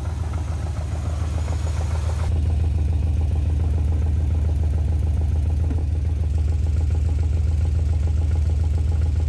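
A 1972 Chevrolet Monte Carlo's V8 engine idling steadily. About two seconds in it gets louder and duller.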